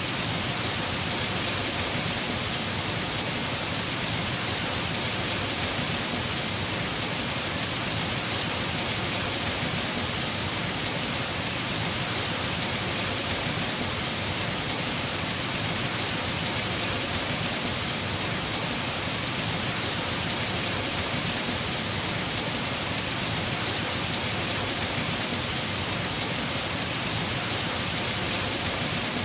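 Heavy rain falling steadily on a house roof, an even unbroken hiss of drops.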